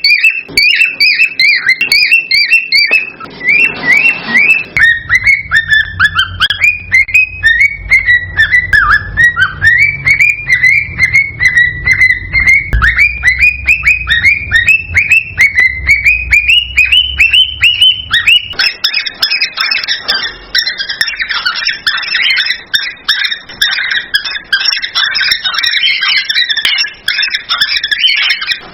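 Cockatiels chirping and whistling in rapid, repeated short calls, several a second, whose pitch sinks and rises again. From about two-thirds of the way through, the calls thicken into a denser, overlapping chatter.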